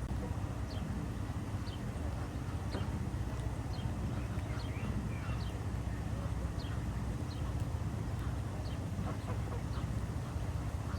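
Ducks calling, with small birds chirping in short high notes every second or so over a steady low rumble.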